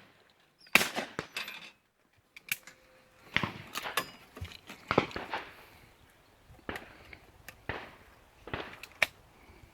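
An irregular series of about eight sharp bangs and knocks, several with a short ringing tail, the loudest near the start and about five seconds in.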